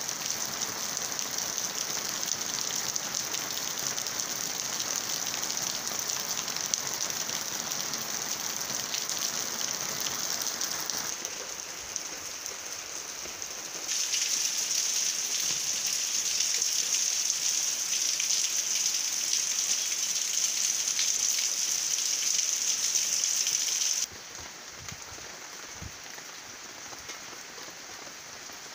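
Steady rain falling through trees and foliage: a dense, even hiss of drops. It steps louder and brighter about halfway through and drops to a softer, duller patter near the end.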